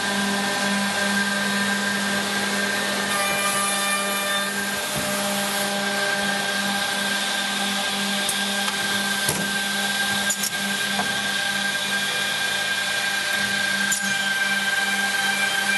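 OTT Tornado edge banding machine running, its motors giving a steady hum and whine, with a few short knocks in the middle.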